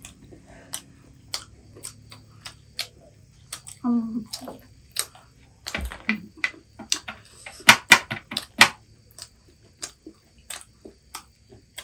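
Crunching and chewing of crispy fried chicken lollipops: irregular sharp crunches and chewing clicks, loudest and quickest about eight seconds in. A brief murmur from a voice about four seconds in.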